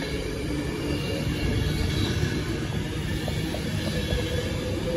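Avanti West Coast Class 390 Pendolino electric train moving along the platform, its wheels rumbling steadily on the rails, with faint high tones from the wheels and running gear. A hum grows louder near the end.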